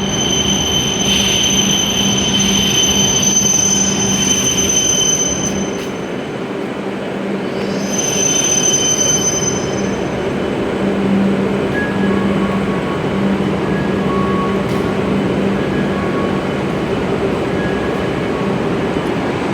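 E7-series Shinkansen train pulling into the platform, with a steady high-pitched squeal that dies away about halfway through, leaving a steady low hum.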